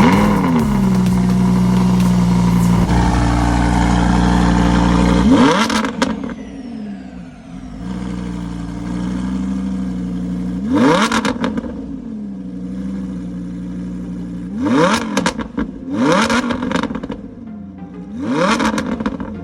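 Lamborghini Huracan's V10 engine through a titanium exhaust, running at a high, steady idle, then settling to a lower idle about six seconds in. It is then blipped in four short, sharp revs, two close together in the second half and the last near the end.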